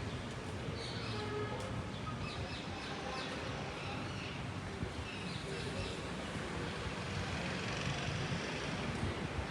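City street ambience: a steady hum of the street with faint voices, and birds chirping now and then.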